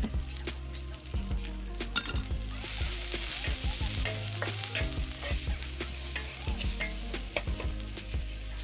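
Chopped garlic sizzling in hot oil in an aluminium wok, stirred with a metal spatula that clicks and scrapes against the pan. The sizzle grows louder about three seconds in.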